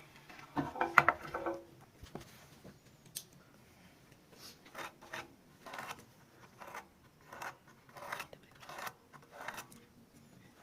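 A brief clatter about a second in, then a run of short scraping strokes on wood, about two a second, from hand work on a cricket bat.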